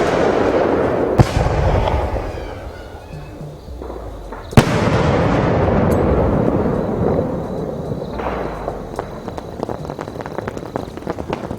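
Fireworks going off: a sharp bang about a second in and another about halfway through, each followed by a long hissing rush, then a run of small crackling pops.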